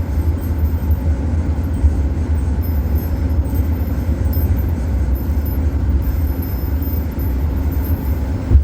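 Steady low rumble of engine and tyre noise inside a moving van's cabin, with a single brief bump near the end.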